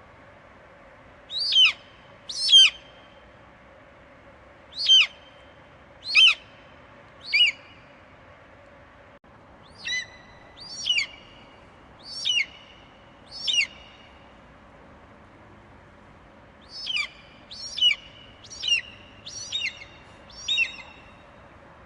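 Eagle screeching: short, sharp calls that fall in pitch, about one a second, in groups of two, then three, then four, then five. A faint steady hiss lies underneath.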